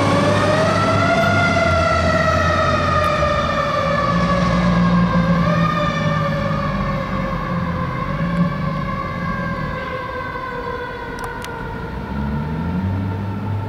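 Federal Q2B mechanical siren on a fire engine, wound up to a peak about a second in and then coasting slowly down in pitch, with a short rise again about five and a half seconds in. The truck's engine runs underneath, and the whole sound fades as the fire engine pulls away.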